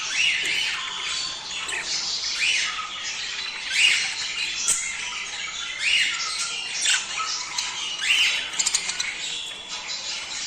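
A flock of budgerigars chattering and squawking, the breeding-season chatter used to get budgies to mate. Loud harsh calls come about every second and a half over continuous warbling, with a quick run of clicks near the end.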